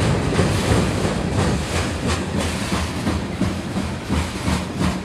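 Freight train's covered hopper cars rolling past, the wheels clicking over rail joints a few times a second. The sound fades as the last car moves away.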